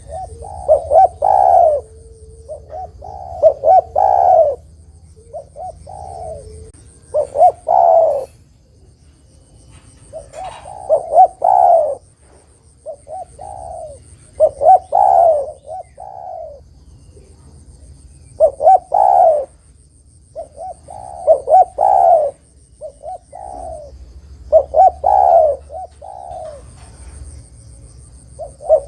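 Spotted dove (derkuku) cooing, a burry multi-note phrase repeated about every three to four seconds, as used to lure other doves into answering.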